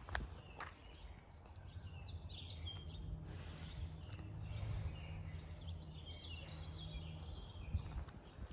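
Songbirds chirping and singing, many short calls in quick succession, over a low steady hum. A few sharp knocks come at the start and near the end.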